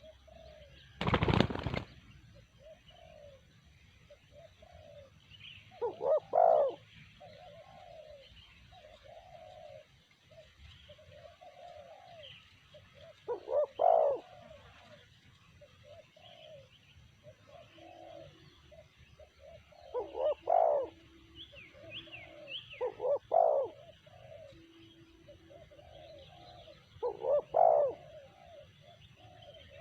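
Spotted doves cooing: a loud phrase of several low notes every few seconds, with fainter coos from another dove in between and small birds chirping faintly. A loud brief thump about a second in.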